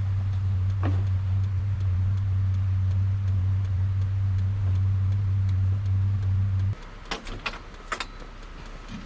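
A steady, loud, low mechanical hum that cuts off suddenly about two-thirds of the way through, followed by a few sharp knocks.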